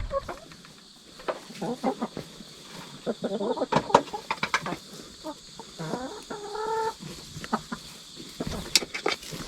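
Chickens clucking, with a short run of pitched clucks about six and a half seconds in, among scattered sharp taps and scratches.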